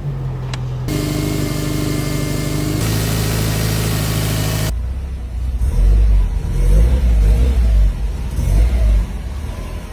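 Car engine revving: held at steady high revs for a few seconds, then dropping to a deep, uneven rumble that swells and falls as the throttle is blipped.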